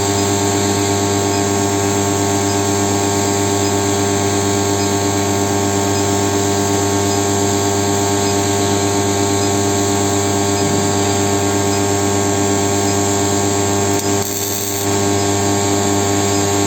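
25 kW induction heating machine running while heating a 36 mm iron rod: a steady electrical hum with a high whine over it. The level dips briefly for about a second near the end.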